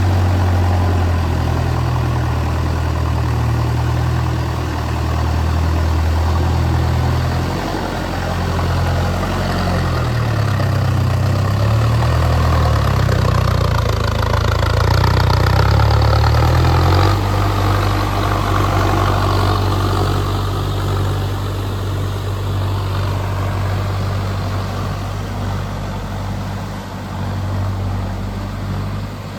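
Mahindra Arjun Novo tractor's diesel engine running steadily, its pitch wavering up and down for several seconds in the middle before settling again.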